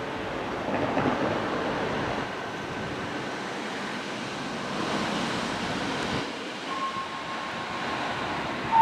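Street traffic noise: vehicles passing with an even rushing sound that swells and fades. At the very end a bright steady tone starts: the fire station's alarm gong.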